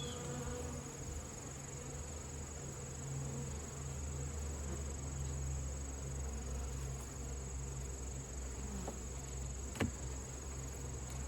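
Honeybees buzzing around an open hive in a steady low hum, over a steady high-pitched insect trill. A single sharp tap about ten seconds in.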